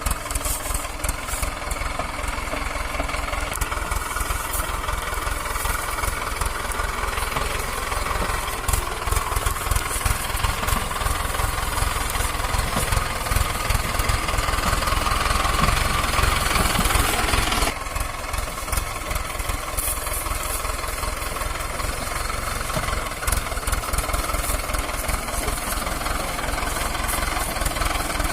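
Mahindra four-cylinder diesel tractor engine running with a fast, even knock. It gets louder for several seconds around the middle, then drops back suddenly about two-thirds of the way through.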